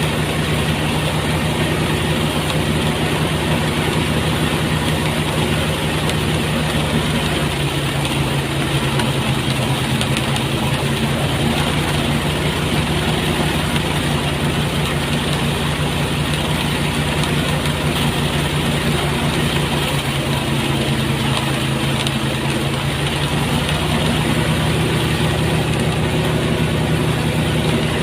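Motorized rice threshing machine running steadily with a continuous engine drone, its pitch sagging slightly through the middle and recovering near the end.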